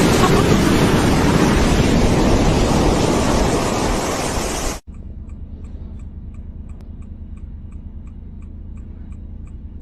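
Loud, steady rushing of surging seawater that cuts off abruptly about five seconds in, followed by a much quieter low steady hum with faint regular ticks.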